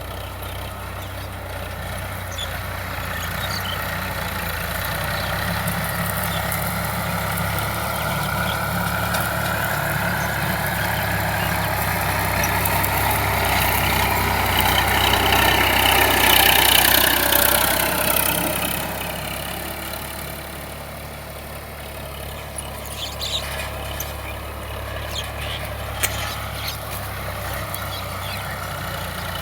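Sonalika 745 tractor's diesel engine running. It grows steadily louder to a peak about two-thirds of the way through, its pitch bending up and then down, and then drops away quickly. A few sharp clicks follow near the end over the steady engine hum.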